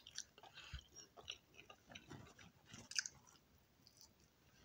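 A person eating oatmeal from a spoon: quiet, faint chewing and mouth sounds with scattered small clicks, one a little louder about three seconds in.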